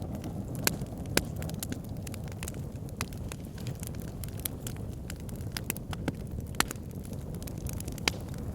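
Backyard fire pit fire crackling: irregular sharp pops and snaps, a few of them louder, over a steady low rumble of the flames.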